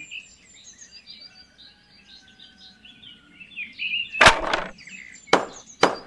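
Faint chirping of small birds. About four seconds in, three sharp knocks follow, the first the loudest and longest.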